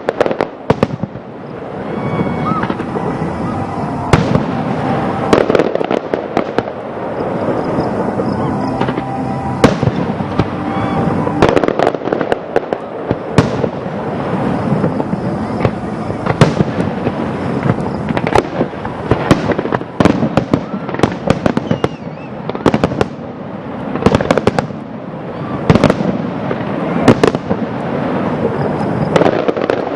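Fireworks display: a steady run of sharp bangs and booms, irregular and sometimes in quick clusters, over a continuous background din.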